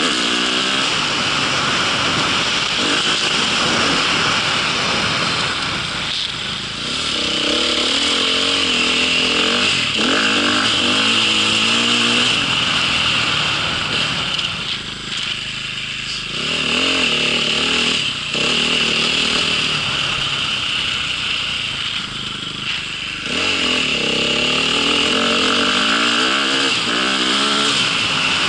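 A small motor vehicle's engine running under way, its revs rising and falling again and again over a constant rushing hiss, easing off briefly three times.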